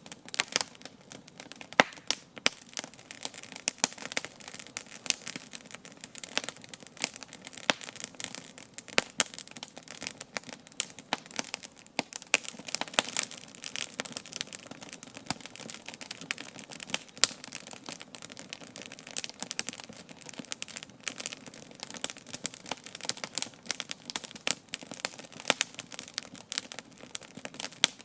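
Campfire crackling and popping: a dense, irregular run of sharp snaps, a few of them markedly louder than the rest.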